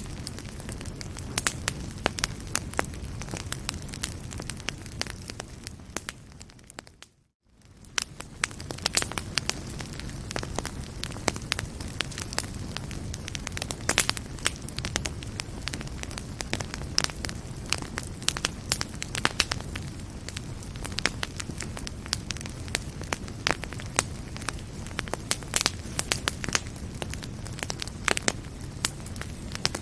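Wood fire burning in a fireplace, crackling and popping with many sharp snaps over a low steady rumble. About seven seconds in the sound fades briefly to silence and swells back.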